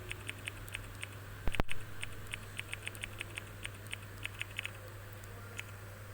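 Typing on a smartphone's on-screen keyboard: a quick, irregular run of short clicks, with one louder thump about a second and a half in.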